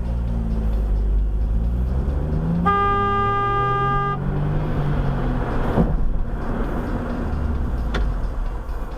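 A car horn sounds once, a steady blast of about a second and a half, about three seconds in, over a car's engine and road noise whose pitch rises and falls.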